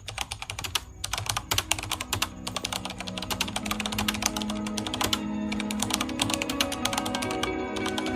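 Rapid computer-keyboard typing clicks, with soft music coming in about two seconds in and growing louder underneath.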